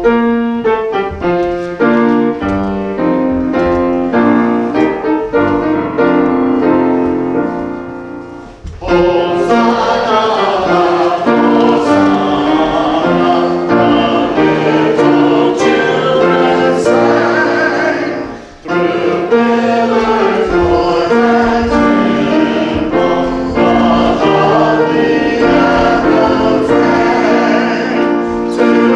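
Piano playing a hymn tune alone for about the first nine seconds, then a church congregation joins in singing with the piano. There is a short break in the singing about halfway through.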